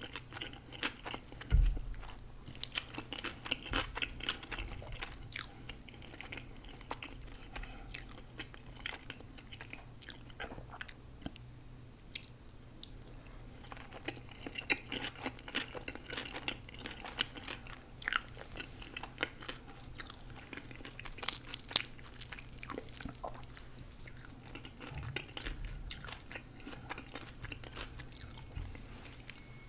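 Close-miked chewing, biting and crunching of food, an irregular run of crisp crackles and wet mouth clicks, with a low thump about a second and a half in.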